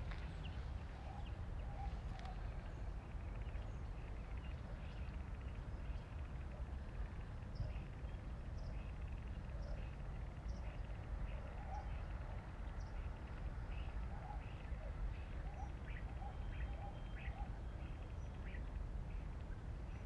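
Several birds chirping and calling in a morning chorus: many short, high chirps scattered through, with a few lower notes, over a steady low background rumble.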